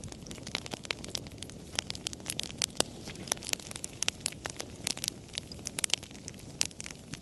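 Campfire crackling: irregular sharp pops and snaps, several a second, over a steady low rush of the flames.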